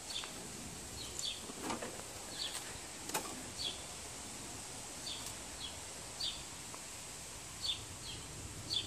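Quiet outdoor background with a small bird chirping: short, high, falling chirps every half second to a second or so. A couple of faint clicks come in the first few seconds.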